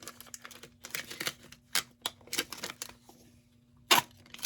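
HDF sublimation blanks and their plastic protective film being handled on a tabletop: irregular small clicks and crinkles, with one sharp knock about four seconds in.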